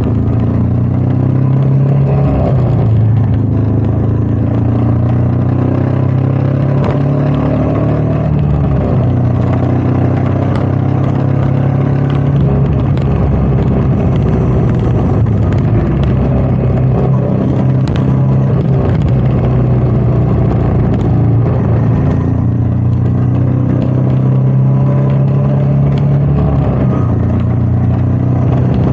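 Royal Enfield Meteor 350's single-cylinder engine running steadily on the move, its pitch rising and falling a little with the throttle, under wind noise.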